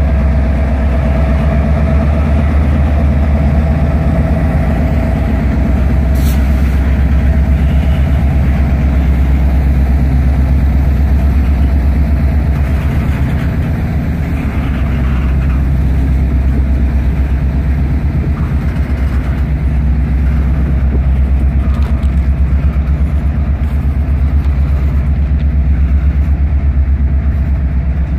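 CSX freight train rolling past: a loud, steady, deep rumble from the diesel locomotive and the freight cars going by. A thin steady tone sounds through the first several seconds, and there is a single sharp click about six seconds in.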